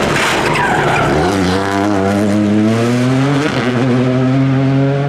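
Rally car engine under hard acceleration, its pitch rising, with a gear change about three and a half seconds in before it climbs again. The first second is rougher and noisier, with tyre noise.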